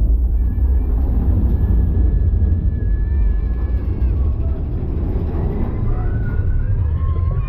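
Mine-train roller coaster rumbling along its track, a loud steady low rumble with wind buffeting the microphone. Faint thin high squeals glide over it.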